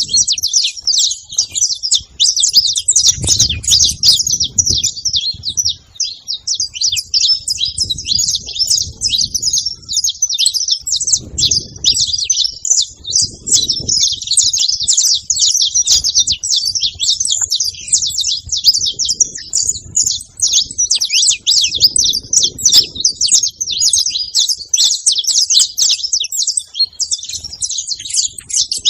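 Several saffron finches (canários-da-terra) singing and chirping at once, a dense, continuous chatter of quick high chirps and trills.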